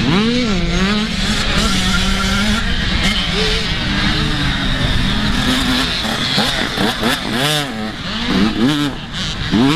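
Motocross dirt bike engines revving up and down over and over, several bikes at once, as they race.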